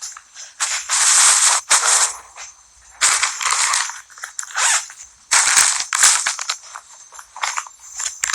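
Bags being handled and packed, rustling and crinkling in irregular crackly bursts of about a second each with short pauses between.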